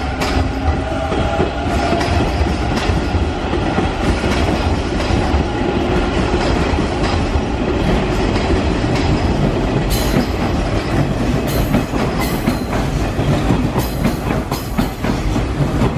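Hanshin 5700 series electric commuter train arriving at the platform, a steady low rumble of motors and wheels. From about ten seconds in, the wheels clack in a regular rhythm over rail joints as the cars pass close by.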